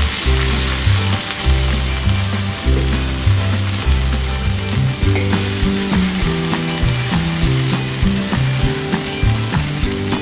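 Shredded cabbage sizzling as it is stir-fried in a wok, with a spatula clicking and scraping against the pan. Background music with a stepping bass line plays under it.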